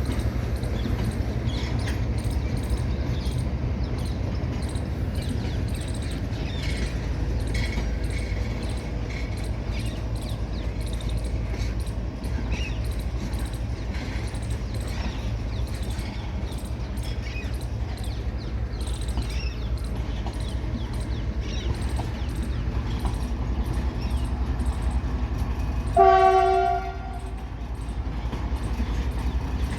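Long goods train running past: a steady low rumble of wagons with repeated wheel clicks over the rail joints. About 26 seconds in, the locomotive sounds a single horn blast lasting about a second, the loudest sound.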